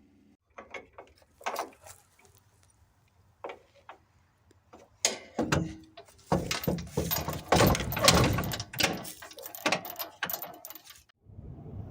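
A run of irregular clicks, knocks and rattles, a few scattered ones at first, then a dense, louder clatter from about five seconds in that stops abruptly shortly before the end.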